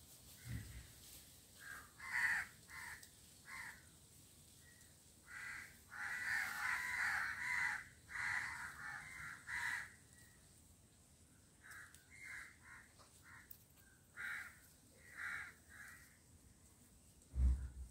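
Birds calling over and over in short repeated calls, most densely in the middle. Two dull low thumps, one just after the start and a louder one just before the end.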